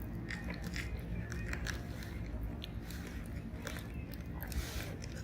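Charcoal campfire crackling: irregular sharp pops and ticks over a low steady rumble, with a brief hiss near the end.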